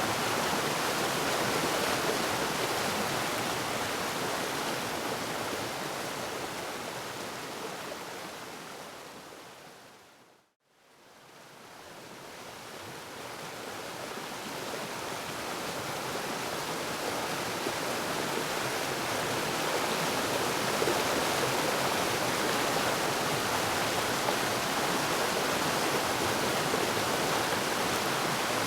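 Waterfall: steady rushing water that fades out to a moment of silence about ten seconds in, then fades back up to full level.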